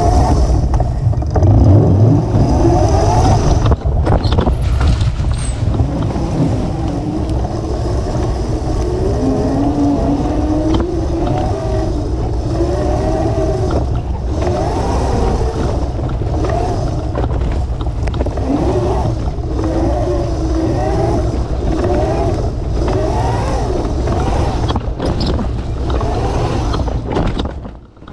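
Modified 72-volt Razor MX650 electric dirt bike's motor whining, its pitch rising and falling over and over as the throttle and speed change, over heavy wind rumble on the microphone. The sound drops away just before the end.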